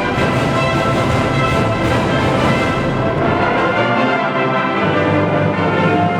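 Symphony orchestra playing, with many held notes sounding together as sustained chords.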